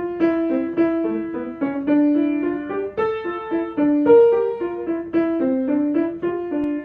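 Piano playing short, repeated notes in several overlapping rhythmic lines, each line standing for a different insect.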